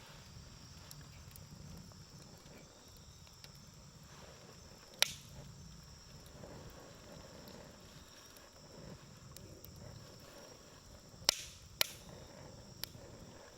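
Wood campfire burning, with a sharp pop of the burning wood about five seconds in and three more near the end, over fine faint crackling.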